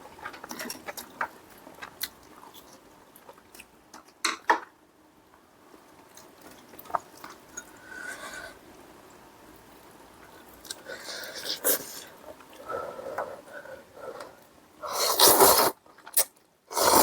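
Close-miked eating: chewing, with light clicks of cutlery against dishes, then two loud breathy bursts near the end.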